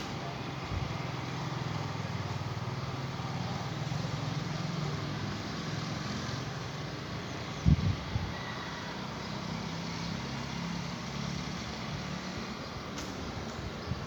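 A steady low engine hum from a motor vehicle, with one short thump about eight seconds in.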